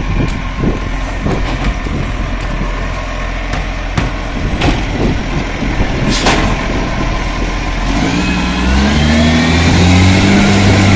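Garbage truck's diesel engine running, with a series of sharp clanks and knocks. About eight seconds in, the engine revs up and holds, rising in pitch and getting louder.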